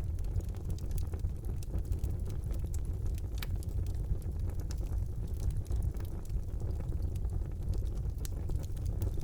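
Wood fire burning in a fireplace: a steady low rumble of the flames with scattered crackles and small pops, one sharper pop about three and a half seconds in.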